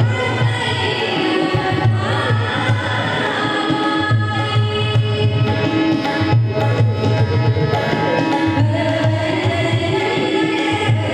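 Indian song with tabla accompaniment: a steady repeating drum beat under a bending melody line, with a woman singing.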